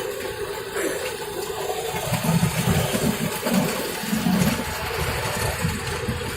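Steady rumbling, hissing running noise of a moving train heard from on board, with a heavier low rumble for a couple of seconds in the middle.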